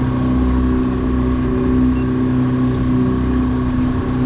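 Yamaha F250 V6 outboard running steadily at cruising speed with the boat underway. A short high beep sounds about two seconds in.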